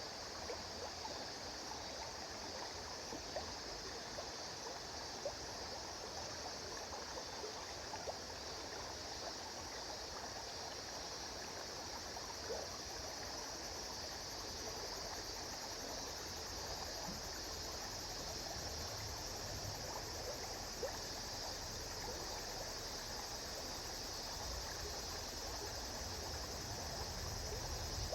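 River water flowing steadily over stones, an even rushing with small splashes and trickles throughout. A low rumble grows near the end.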